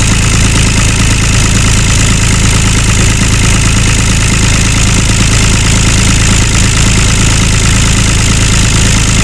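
Mini model tractor running steadily, a constant engine-like drone with a fast even pulse.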